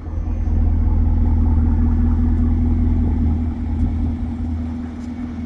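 The supercharged LT4 V8 of a Chevrolet Camaro ZL1 with a Borla exhaust idling steadily, a low even rumble.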